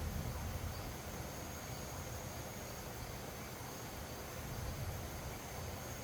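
Wind blowing ahead of rain, a steady hiss with a low buffeting rumble that swells about four and a half seconds in. Over it an insect keeps up a steady high-pitched trill.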